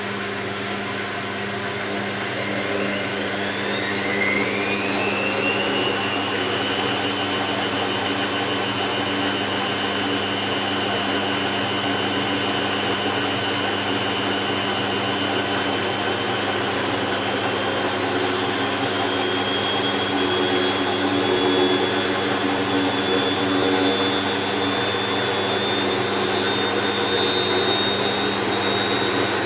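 Hoover VisionTech washing machine's motor whining as the drum speeds up over a few seconds, then running steadily at high speed with a loud, even whine.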